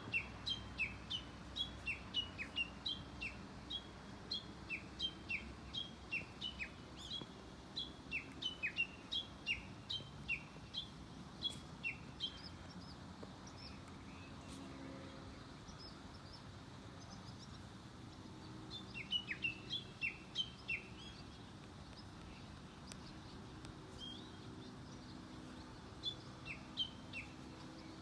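A songbird hidden in a tree calling in repeated series of short, sharp, downward-sweeping chirps, about two a second. A long run of calls stops about twelve seconds in, and shorter bouts follow later after pauses.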